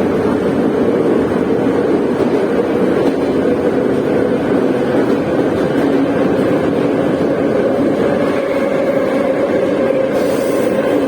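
Moscow metro train running at speed between stations, heard from inside the car: a steady loud rumble of wheels on rails with a motor whine that rises slightly in pitch partway through, and a short burst of hiss near the end.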